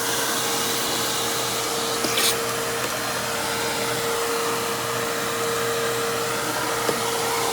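Simplicity Symmetry Deluxe upright vacuum's 12-amp single-stage motor running steadily, an even rushing hiss with a constant whine, the brush roll switched off by its clutch. A brief knock about two seconds in.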